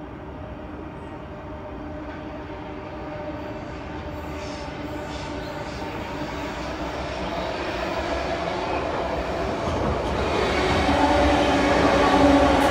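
Sydney Trains double-deck electric suburban train approaching and passing close by, its rumble on the rails growing steadily louder. A steady humming tone rises with it and is strongest as the cars pass, about ten seconds in.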